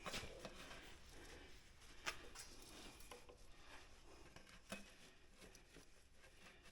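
Faint handling sounds from ratchet straps being worked: a few light, scattered clicks and knocks over quiet rustling.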